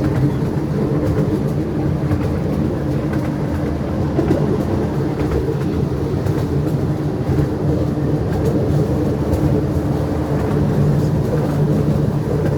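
Miniature zoo passenger train running along its track: a steady low rumble of the ride with a low hum, and faint scattered clicks of wheels on the rails.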